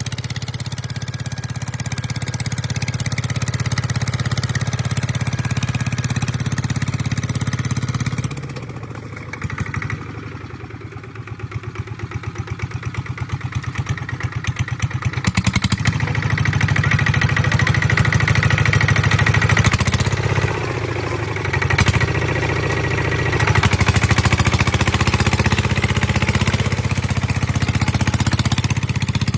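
Kubota ZT150 single-cylinder diesel engine of a two-wheel walking tractor running steadily. About eight seconds in the revs drop and it goes quieter, then it speeds back up a few seconds later and runs strongly again.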